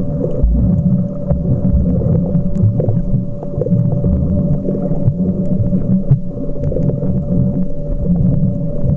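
Muffled churning and sloshing of water against a camcorder's underwater housing while snorkeling, a low rumble with a steady hum above it.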